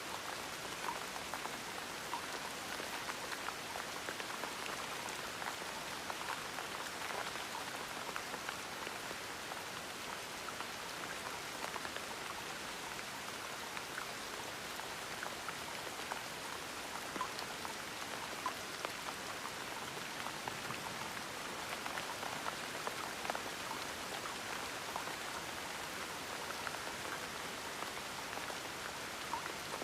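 Gentle, steady rain: an even hiss with many scattered, distinct drop ticks.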